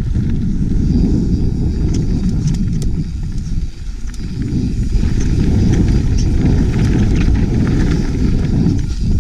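Wind buffeting the camera's microphone on a fast trail descent: a steady low rumble, with scattered small clicks and rattles from the ride over rock and gravel.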